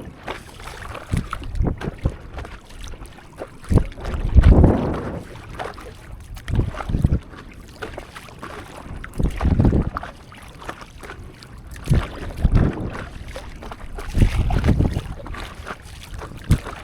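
Stand-up paddleboard paddle strokes in sea water, a low splashing surge about every two and a half seconds, with wind on the microphone.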